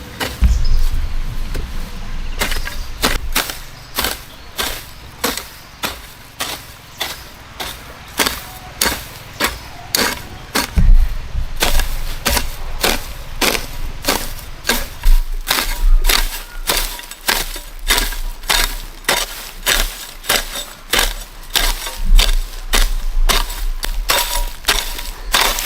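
Rapid, steady series of sharp strikes, about three a second, like a hand tool hitting something hard over and over.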